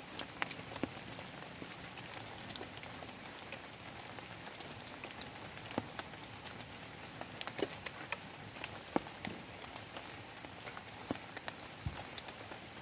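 Steady rain with individual drops tapping irregularly on a plastic tarp shelter overhead, a few of them sharp and close.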